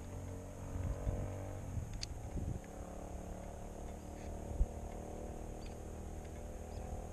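Motorcycle engine idling steadily while stopped, with a few faint clicks and one short knock about four and a half seconds in.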